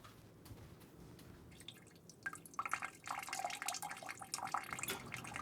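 A person urinating into a toilet: a thin trickle splashing and dripping into the bowl water, starting about two seconds in after near quiet.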